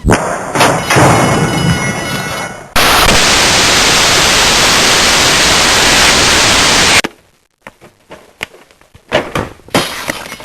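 Sound effects played back to back: a sudden noise that fades, then a loud steady hiss like static for about four seconds that cuts off abruptly, followed by a few scattered knocks.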